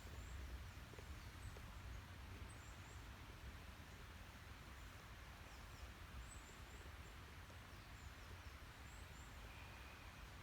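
Quiet outdoor background with a low rumble, and faint, very high, short chirps of small birds scattered throughout.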